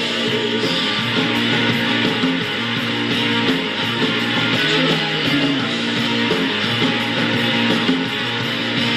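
Rock song playing, with distorted electric guitar and bass over a steady beat of cymbal ticks.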